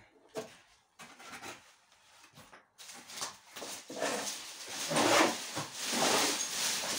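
Dry brush and branches rustling and crackling as they are gathered up and carried by the armful, faint and broken at first, then louder and denser from about three seconds in, swelling several times.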